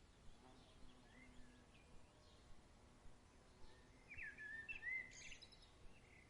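Faint evening birdsong: scattered short, gliding chirps, then a louder cluster of calls about four seconds in, over a soft, even background hush.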